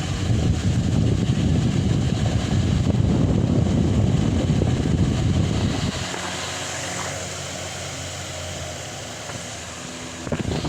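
Delta Gold 50 cm four-blade wall fan with an old-style motor running. Its airflow buffets the microphone with a low rumble for about the first six seconds, then it settles into a steadier whir with a faint motor hum. A few short knocks come near the end.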